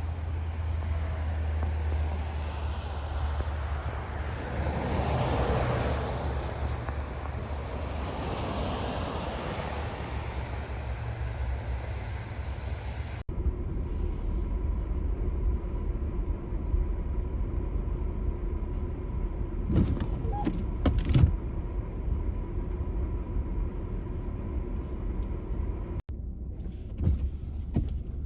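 Car on a snowy road: steady low engine and road rumble, with a louder rush of tyre and road noise between about four and ten seconds in. The sound changes abruptly twice where clips are cut together, and a few short clicks come around twenty seconds in.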